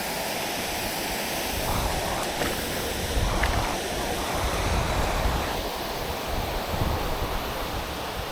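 Waterfall: a steady rush of falling water, with some wind buffeting the microphone.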